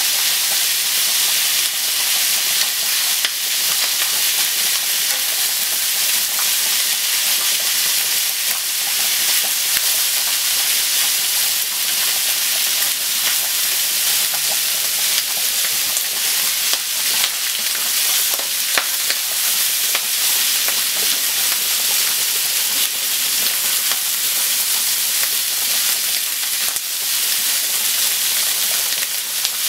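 Sliced onion and bacon sizzling steadily as they are stir-fried in a nonstick frying pan, with occasional light clicks of chopsticks against the pan.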